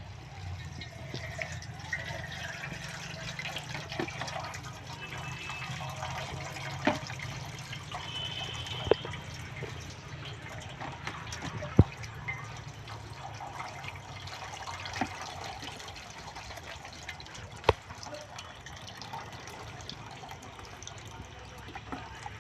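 Mustard greens being washed by hand in water: continuous splashing and trickling, with a few sharp knocks now and then.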